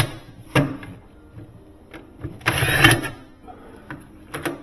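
Handling noises from taking off a refrigerator's door closer: a click, then a brief scraping rattle about halfway through, and a few sharp clicks near the end.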